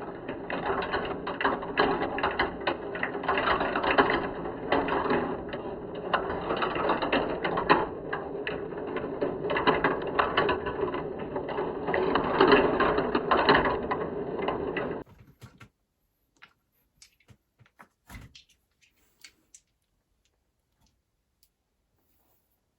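Many marbles rolling and clattering down plastic marble-run slopes in a dense, continuous rattle. It stops abruptly about fifteen seconds in, leaving only scattered single clicks of marbles.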